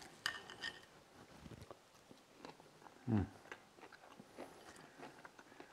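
Biting into and chewing a piece of buttermilk-brined, flour-breaded fried chicken thigh, the crust crunching in small, irregular clicks. A short vocal sound from the eater comes about three seconds in.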